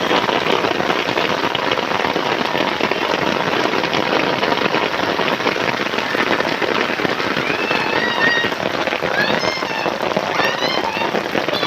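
Heavy rain pouring steadily, a dense even hiss of rain on surfaces. In the second half a few short, high chirps come in bunches over the rain.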